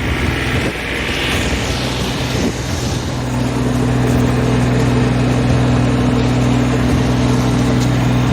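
EG220 tractor's diesel engine running. In the first three seconds its steady note breaks up briefly, with a short hiss that rises and falls, then it runs steadily again.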